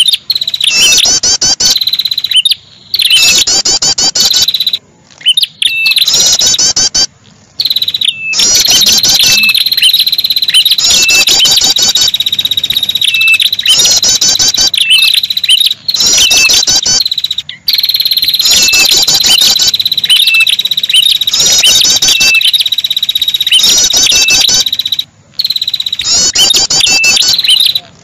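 Ashy tailorbird (prenjak kepala merah) lure call: loud, rapid high chirps and buzzing trills over a steady high note, repeating in bursts of a few seconds with short breaks between them, a pikat track played to draw in small birds.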